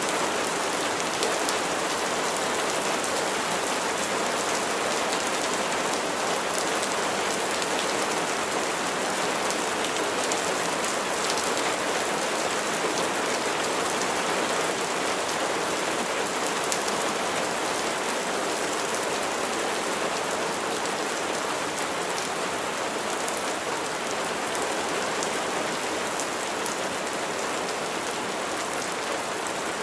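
Steady rain falling, a dense even patter of raindrops with fine individual drop ticks.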